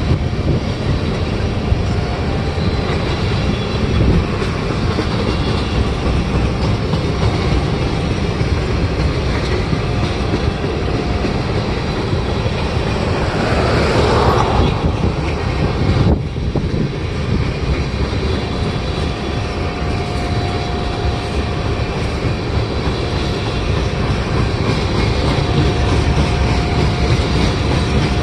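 A freight train of tank cars rolling past, a steady rumble of steel wheels on the rails, with a brief swell in loudness about halfway through and a faint thin whine that comes and goes.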